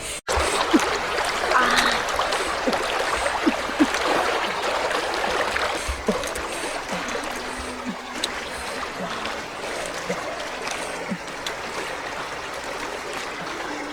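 Steady sound of flowing stream water, beginning abruptly just after the start.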